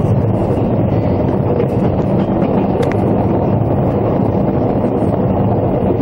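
Steady running noise of a diesel-hauled passenger train at speed, heard from inside a carriage: an even rumble of wheels on the rails, with a few faint clicks.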